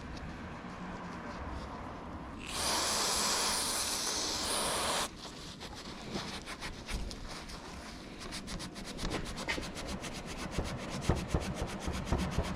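Aerosol brake parts cleaner sprayed in one steady hiss of about two and a half seconds, starting and cutting off sharply. It is followed by a fast run of fine scratchy rubbing strokes and a few knocks near the end.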